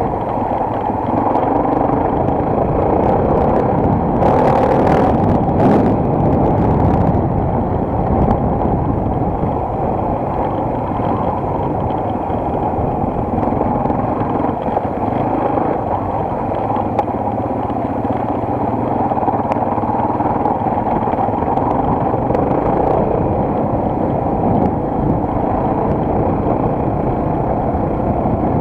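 Enduro motorcycle engine running steadily under way. A brief hissy rush comes about four to seven seconds in.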